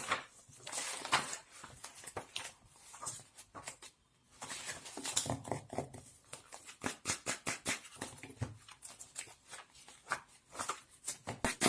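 Close-up handling sounds: irregular rustling swishes and quick light taps and clicks, with a short pause about four seconds in.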